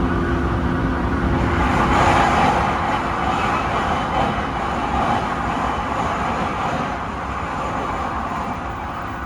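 Tsukuba Express electric train running: a steady rumble of rolling noise with a faint steady hum, swelling about two seconds in and then slowly easing off.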